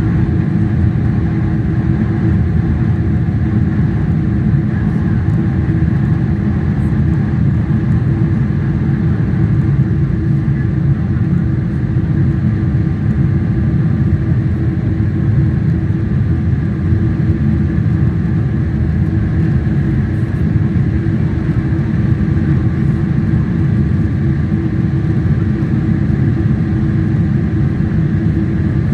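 EVA Air Boeing 777's GE90 jet engines running at high takeoff thrust: a steady low roar with a faint constant whine over it.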